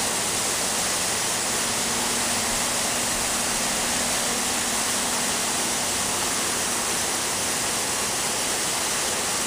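Waterfall pouring steadily, an even rushing of water with no breaks.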